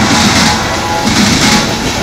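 Freight cars of a passing manifest train rolling by, the wheels clattering in an uneven rhythm on the rails, with a steady high metallic ringing over the noise.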